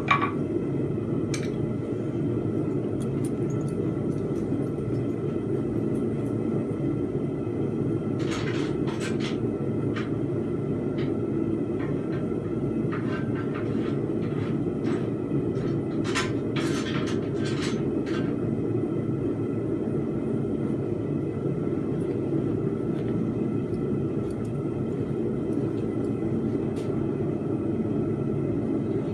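Blacksmith's forge running with a steady low roar between hammering heats. A few light clicks come about eight seconds in and again around sixteen to eighteen seconds.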